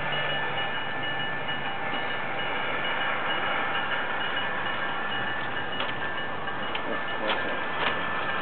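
Garden-scale model freight train running on its track: a steady rolling hiss with high ringing tones held throughout, and a few sharp clicks about six to eight seconds in.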